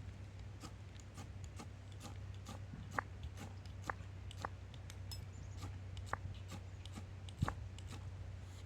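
Small fire of paper and twigs crackling, with irregular sharp pops and ticks, over a steady low hum.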